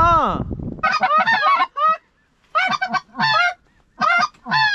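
A flock of geese honking, several overlapping calls at a time, in three or four bursts with short pauses between.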